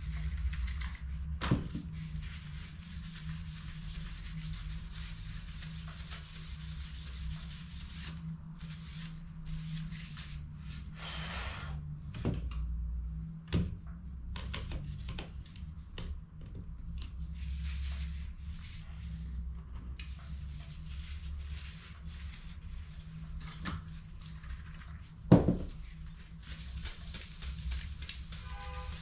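Continuous rubbing and scraping as a laser toner cartridge is worked on by hand, with a few sharp clicks and one louder snap toward the end.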